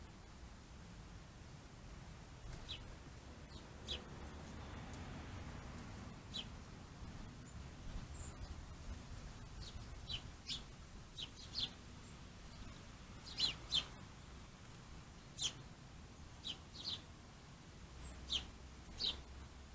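Wild birds giving short, high chirps, scattered irregularly, with two louder chirps in quick succession about two-thirds of the way through.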